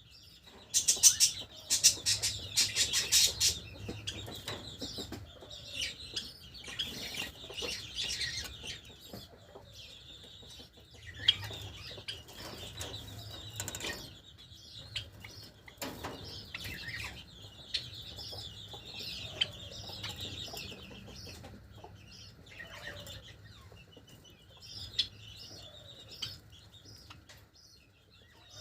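Java sparrows chirping with short, busy calls, mixed with wing flaps and sharp clicks of the birds moving about. The loudest burst of clicks and chirps comes about one to three seconds in.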